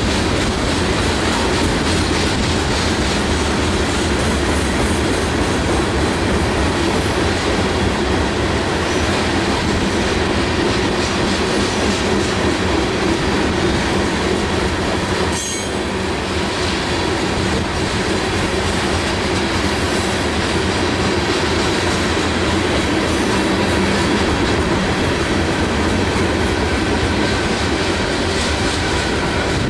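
Train rolling past on the track: a steady, loud rumble of cars and wheels with rail clatter that carries on unbroken, dipping briefly about halfway through.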